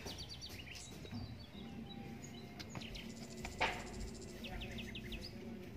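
Small birds chirping in quick runs of about five short falling notes, once at the start and again near the end. A little past the middle comes a brief dry rustle, the loudest sound, as the dry bamboo leaf mulch is handled.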